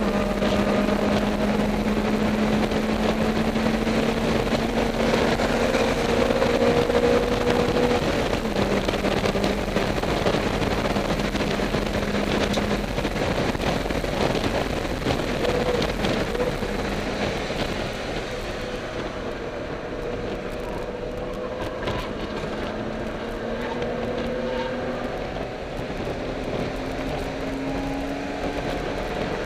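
Car engine and road noise heard from inside the cabin at track speed. The engine holds a steady note for the first several seconds, eases off somewhat past the middle, and rises in pitch again near the end as it picks up.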